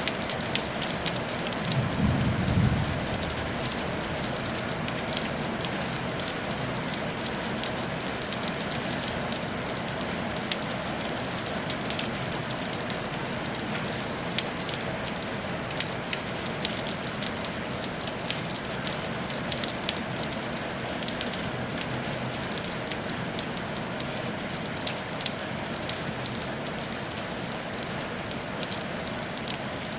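Steady rain falling on a tile roof, with many fine drop ticks. A brief low rumble comes about two seconds in.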